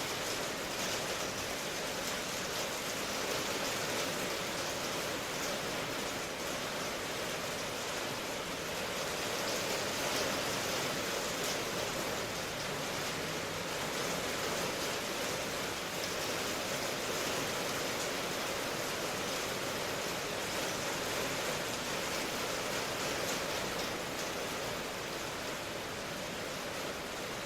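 Steady rain, an even, unbroken hiss of many drops with no distinct single impacts.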